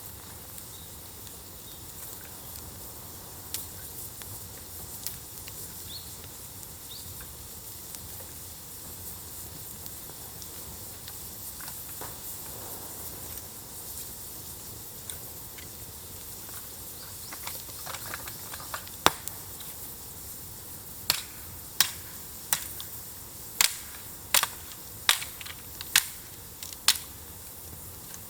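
Bonfire burning with a steady hiss, then crackling with a run of sharp pops from about two-thirds of the way in, roughly one or two a second.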